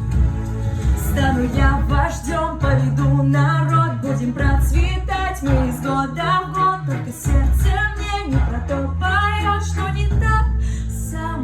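A woman singing a melody over backing music with sustained bass notes.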